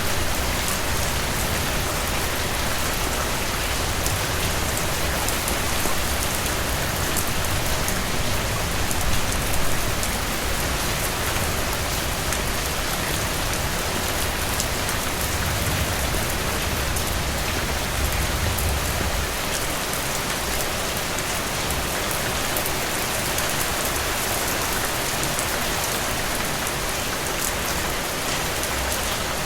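Steady rain falling on a cabin roof: a dense, even hiss with many individual drops ticking through it. A low rumble underneath eases off about two-thirds of the way through.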